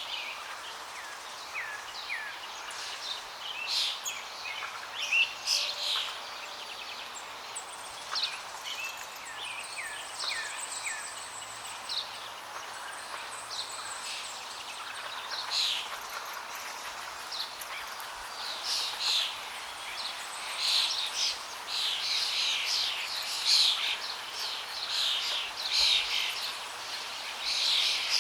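Several birds chirping and singing in quick short calls over a steady rush of flowing water; the birdsong grows busier in the second half.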